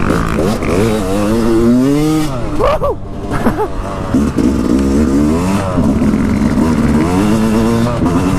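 Dirt bike engine revving as it is ridden. The pitch climbs and falls with the throttle, then drops sharply about two and a half seconds in with a couple of quick blips, and the engine runs on steadily with smaller rises.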